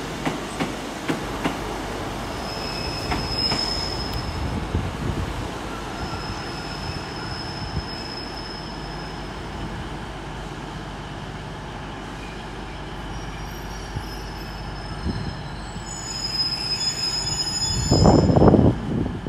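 Diesel multiple unit running at the platform and moving slowly, its wheel flanges squealing several times with a thin high note. Near the end comes a loud, short, low burst.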